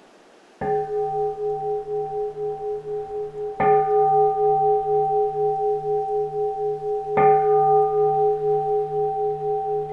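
Keisu, a Zen Buddhist bowl bell, struck three times about three and a half seconds apart; each stroke rings on in a long, slowly pulsing hum that carries into the next.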